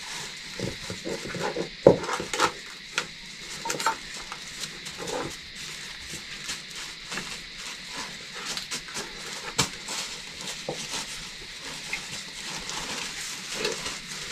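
Kitchen work sounds: scattered clinks and knocks of pots and utensils over a steady hiss, with a few short vocal sounds, the loudest knock about two seconds in.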